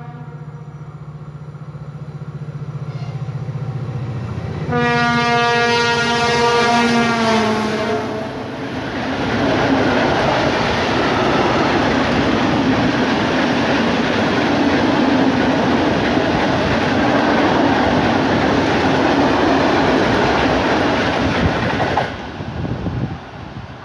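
M62M 'Gagarin' diesel locomotive approaching with a low engine drone. About five seconds in it gives a loud horn blast of about three seconds that drops in pitch as it passes. The freight train's hopper wagons then rumble and clatter past on the rails for about fourteen seconds, and the noise falls away suddenly as the last wagon goes by.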